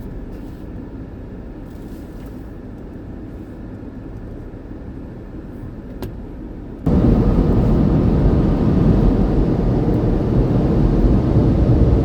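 Low steady rumble, then about halfway through the car wash's air dryer blowers switch on with a sudden, loud, steady rush of air that keeps going: the drying stage of the wash.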